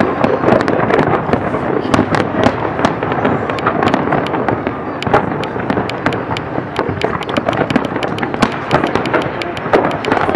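Aerial fireworks display: many sharp cracks from bursting shells over a continuous din, with the cracks coming thicker near the end.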